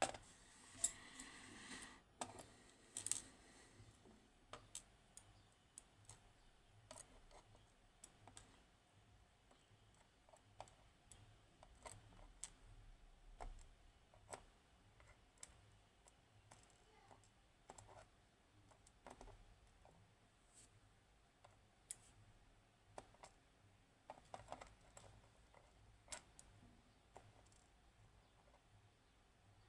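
Faint, scattered clicks and taps of small metal lock parts and tools being handled while the lock is taken apart, with a brief burst of busier handling about a second in.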